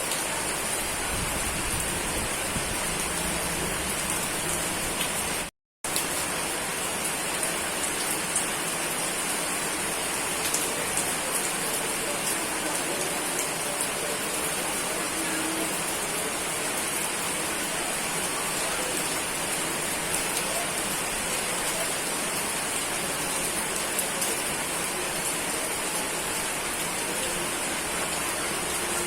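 Steady rainfall, an even hiss of rain on surfaces, which cuts out to silence for a split second about five and a half seconds in.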